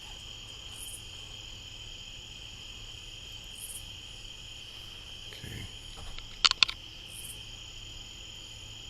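A steady chorus of crickets trilling, with a fainter, higher pulsing insect call repeating every second or two. Two sharp clicks stand out about six and a half seconds in.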